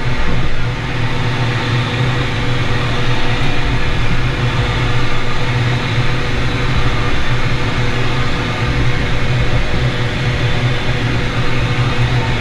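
Sandblast cabinet running: a steady hiss of blasting air and grit over a constant motor hum.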